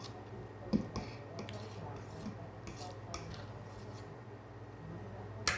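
Cutlery clinking and scraping on a plate during a meal: a few scattered light clicks, the sharpest near the end, over a steady low hum.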